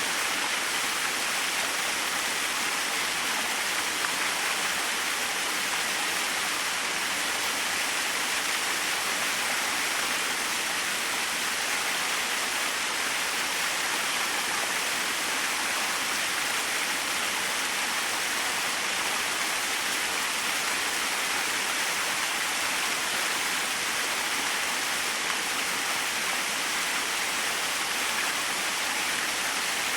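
Small waterfall splashing steadily, a constant rush of falling water strongest in the high range.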